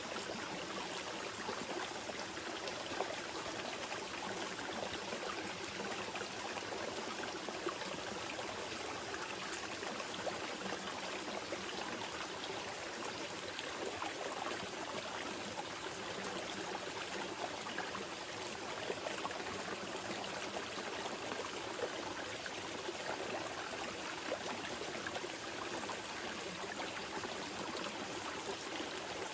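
Small mountain river flowing over rocks, a steady rushing and babbling with small splashes.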